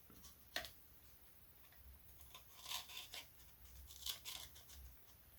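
A blade cutting through a sticker on a foam model: a sharp click about half a second in, then a few short, faint scratchy strokes.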